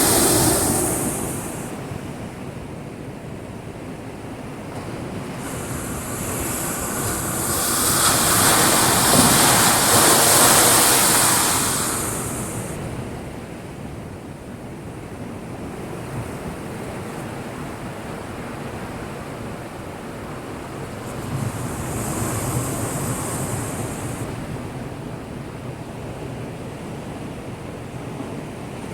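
Heavy storm surf from an approaching typhoon's swell, breaking against a breakwater under a continuous rush of water. Three big waves surge in: one at the start, a long one about six to twelve seconds in, and a smaller one about twenty-two seconds in.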